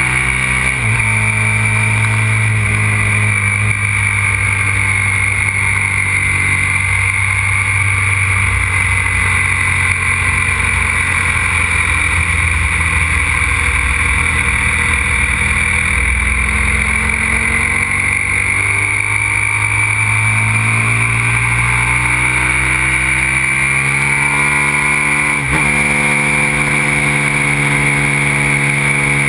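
Aprilia RXV 550 supermoto's V-twin engine running hard on track, its pitch rising and falling with throttle and gear changes.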